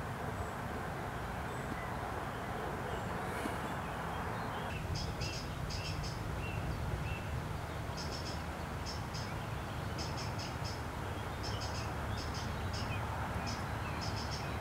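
Steady outdoor background hiss and rumble, with a small bird's short high chirps repeating in quick groups of two to four from about five seconds in.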